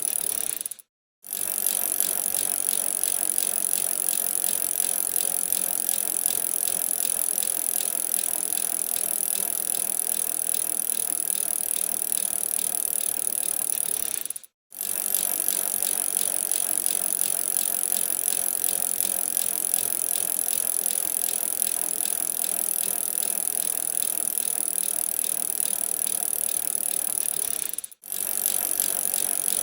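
Bicycle being ridden: steady, hissing tyre and drivetrain noise with rattling from the bike. The sound drops out to silence for a moment three times.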